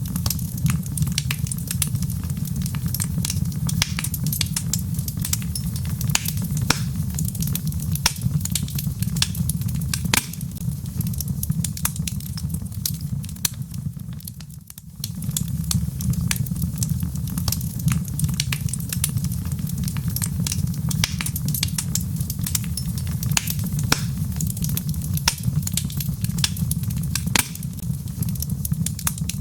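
Wood fire in a fireplace crackling, with many sharp pops over a steady low rumble. The sound drops away briefly about halfway through, then carries on as before.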